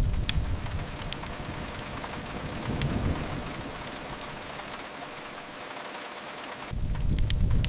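Steady rain, with scattered sharp crackles and pops from a wood fire. Low rumbles rise at the start, about three seconds in, and again near the end, and are the loudest sound.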